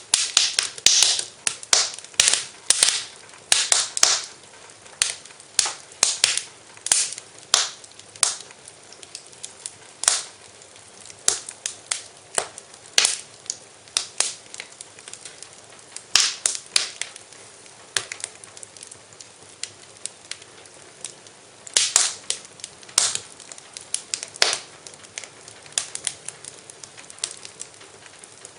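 Wood fire in a fireplace crackling, with irregular sharp pops and snaps over a faint steady hiss of the burning; the pops come thick and fast at first, thin out, then bunch up again in spells.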